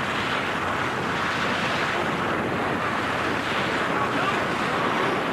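Steady rush of wind over a microphone during a skydiving freefall.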